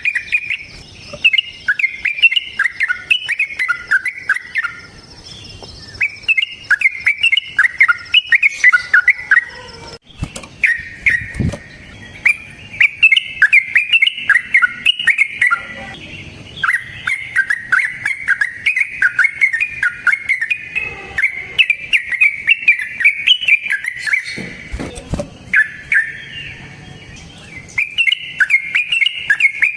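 Yellow-vented bulbul (trucukan) singing long runs of its rapid, bubbling chatter, phrase after phrase with only short breaks, the long 'ropel' song used to lure and tutor other trucukan.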